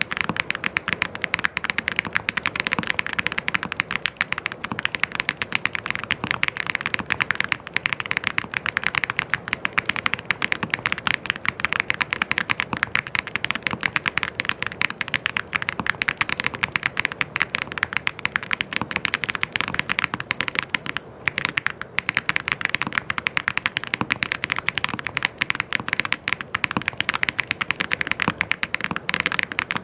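Fast, continuous typing on a mechanical keyboard: a dense stream of key clicks with a short break about two-thirds of the way through.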